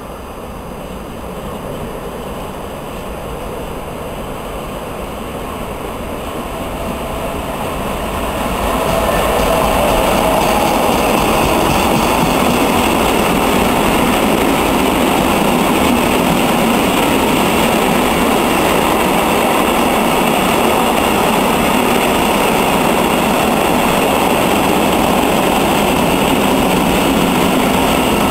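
Freight train of hopper wagons hauled by an electric locomotive, approaching and then passing close by. A rolling rumble grows over the first eight seconds or so, then holds loud and steady as the wagons' wheels run past on the rails.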